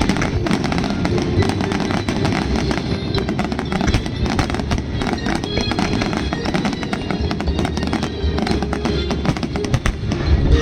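Aerial fireworks crackling and popping in a rapid, continuous stream, with music playing along.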